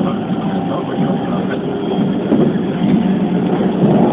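Keikyu New 1000 series electric train running, heard from inside at the front of the car: a steady rumble of wheels on rail and running gear that grows a little louder near the end. It is picked up by a flip phone's microphone, so it sounds muffled with no high end.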